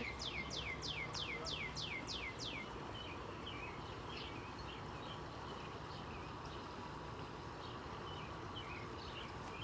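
A bird singing a quick series of about nine downward-sweeping whistled notes, about three a second, over the first few seconds, then only faint scattered chirps over a steady outdoor background.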